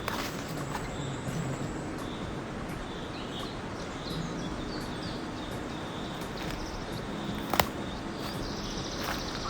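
Small birds chirping in short high calls over a steady outdoor hiss, with a single sharp click about three-quarters of the way through.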